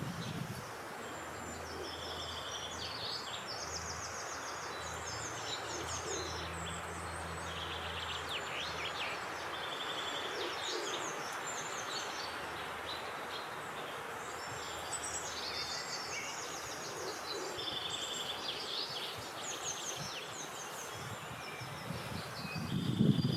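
Several songbirds singing outdoors in short, repeated high phrases over a steady wind hiss. A faint low hum runs through the first third, and a brief low rumble comes near the end.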